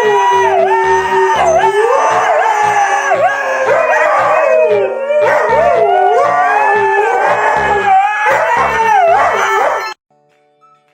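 A dog howling in long, sliding wails over a steady low beat, as if singing along to music. It cuts off suddenly just before the end.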